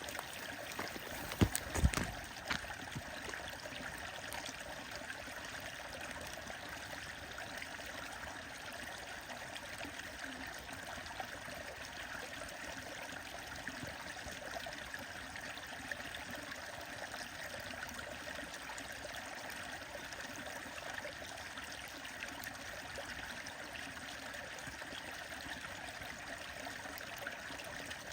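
Stream water running steadily, with two sharp knocks close together near the start.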